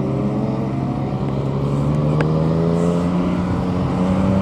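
Motorcycle engine running at highway speed, its pitch rising slowly as it gains speed, with wind rushing past.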